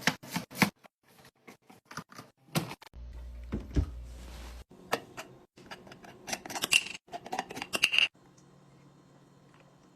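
Rapid clicks, taps and light knocks of containers and packaging being handled and set down, with a low rumble partway through. The clicking stops about eight seconds in, leaving a faint steady hum.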